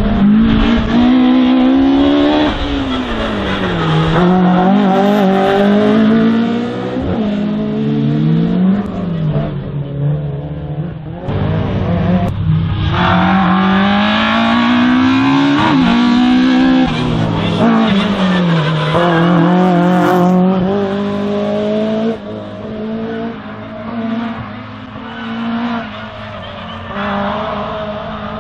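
A slalom race car's engine revving hard and dropping back again and again as the car accelerates and brakes between the cones, its pitch rising and falling many times. The engine grows quieter for the last few seconds.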